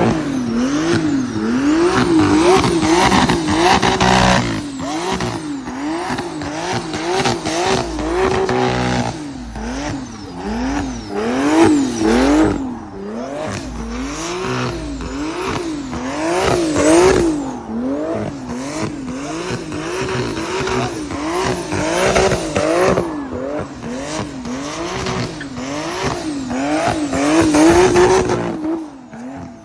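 BMW car engine being blipped through the throttle while drifting, its pitch rising and falling about one and a half times a second, with tyres squealing and scrubbing under it.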